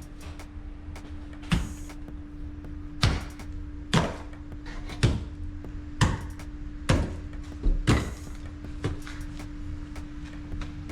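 Repeated heavy knocks, roughly one a second, as old plumbing pipe is struck to break it loose. A steady low hum runs underneath.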